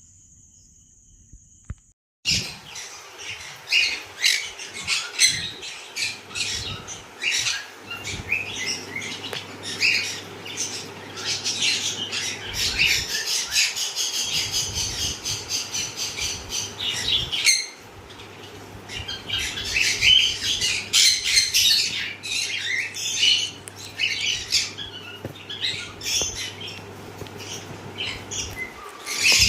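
Many caged small parrots chirping and squawking at once in dense, overlapping chatter. It comes in suddenly about two seconds in, after a steady high-pitched whine.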